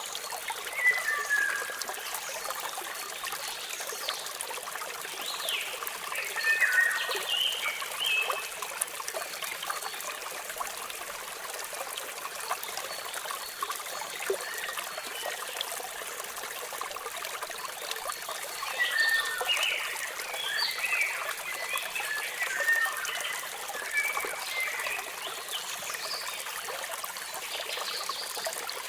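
Running water trickling and splashing over rocks, with small birds chirping and twittering over it in two spells, one in the first several seconds and another from about 18 seconds in.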